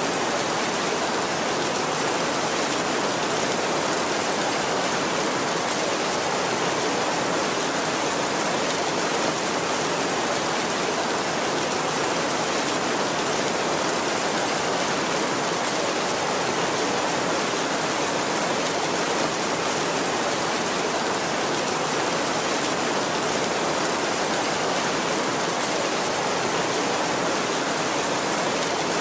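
Heavy rain drumming on a tin roof: a steady, even hiss with no thunder in this stretch.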